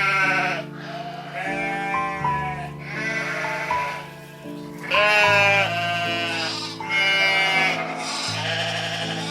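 Sheep bleating about five times, each call quavering, over background music with sustained chords.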